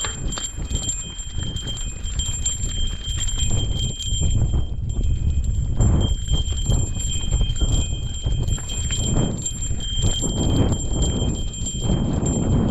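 Footsteps and the irregular clatter of a mountain bike being pushed up a rocky trail, over a low rumble of wind on the microphone.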